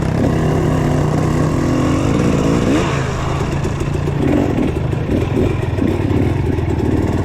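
Dirt bike engine running on a single-track trail ride, its pitch rising and falling as the throttle is worked, with a clear rev-up about two and a half seconds in.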